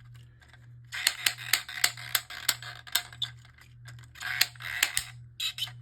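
Hasbro Precision Strike Beyblade launcher being cranked to wind it up: its plastic ratchet clicks about three times a second, in two runs with a short pause between.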